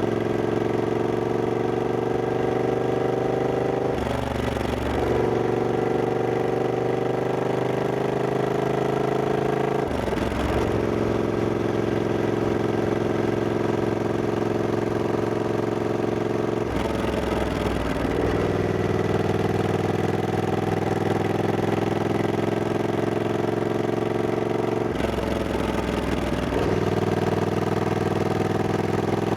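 Triumph Scrambler 1200X's 1200 cc parallel-twin engine pulling under way, its pitch climbing slowly in each gear, with four gear changes that briefly break the sound.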